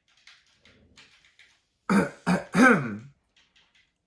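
Faint wet smacking and clicking of someone chewing with their mouth open, then about two seconds in three loud, pointed throat-clearing sounds in quick succession.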